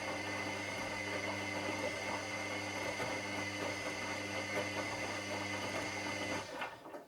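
Washing machine running with a steady hum and a high steady tone over the drum noise, which stops abruptly about six and a half seconds in, with a few clicks as it cuts out.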